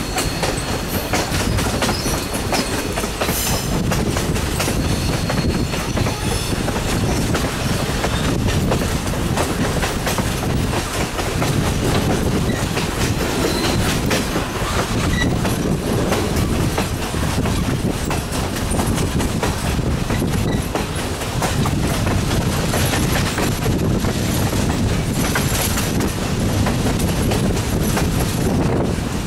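Passenger train cars rolling along the track, heard from the side of a coach: a steady rumble of wheels on rail with clicks over the joints. A faint high wheel squeal runs through the first few seconds.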